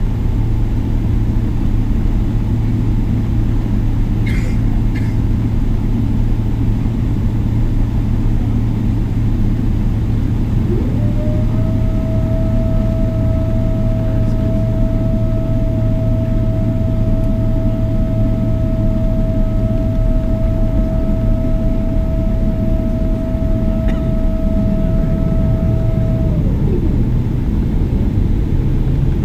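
Boeing 777-300ER cabin noise: the steady rumble of its GE90 engines and airflow, with a low hum throughout. A steady mechanical whine slides up and comes in about eleven seconds in, holds, then slides down and fades near the end.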